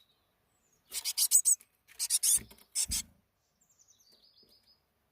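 Loud scratchy rasping in three quick bursts of strokes, the later two ending in a low thud, followed near the end by a small bird's faint, rapid high-pitched chirping trill.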